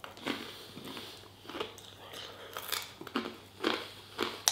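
Close-up crunching and chewing of crisp battered fried food, with a run of irregular crunches about every half second.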